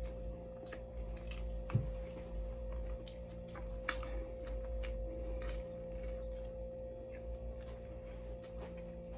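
A person chewing a mouthful of sandwich, with scattered small wet clicks from the mouth, over a steady electrical hum.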